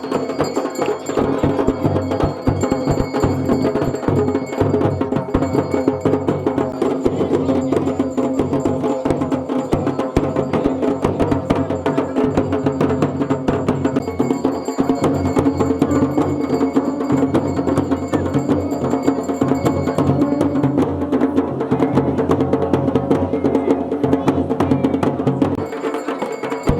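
Dhol and damau drums played in a fast, unbroken beat, with a steady held tone sounding beneath the strokes.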